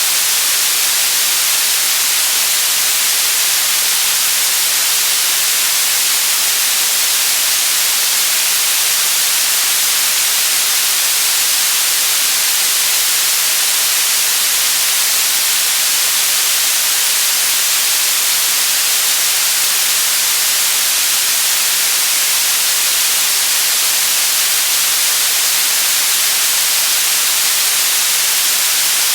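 Electronic white noise: a steady, unchanging hiss, strongest in the high treble.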